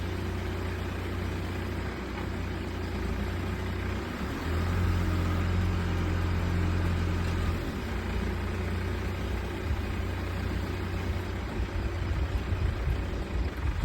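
An engine idling steadily with a low hum, swelling for a few seconds in the middle and turning uneven and pulsing near the end.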